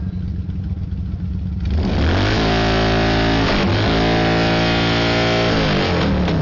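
Motorcycle engine idling, then revved hard about two seconds in and held at high revs for roughly four seconds, with a brief dip in the middle, before dropping back to idle near the end. The engine is held wide open for a decibel meter in a loudness contest.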